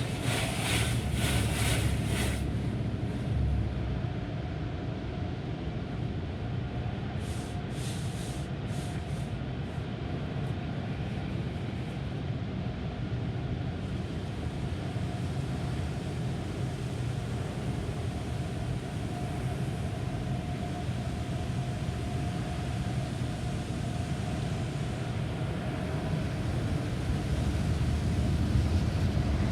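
Automatic car wash tunnel equipment running: a strong hiss of spraying water for the first two seconds, then a steady low rumble with a faint steady hum, broken by a few short hisses about seven to ten seconds in.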